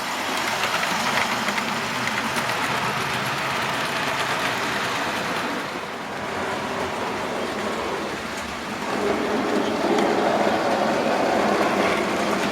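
Model railway locomotive and wagons running along the layout's track, a steady rolling rattle of wheels on rail with the motor's hum. It gets louder from about nine seconds in.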